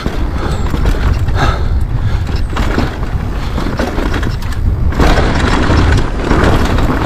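Pole Voima electric mountain bike descending a rough downhill trail: wind buffeting the microphone, tyres rolling and scrabbling over dirt and rock, and the bike knocking and rattling over bumps. About five seconds in the rushing tyre and trail noise gets louder and fuller.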